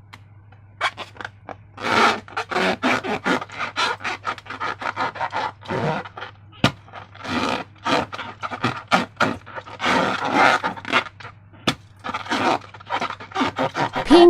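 Slime being worked by hand: a dense, irregular run of sticky crackles, clicks and scraping sounds.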